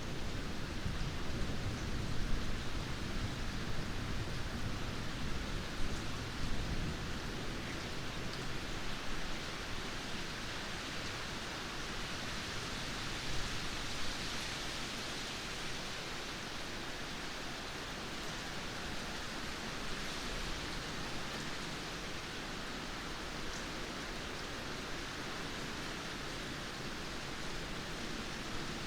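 Steady rainfall, an even hiss of falling rain. A low rumble of thunder dies away over the first several seconds.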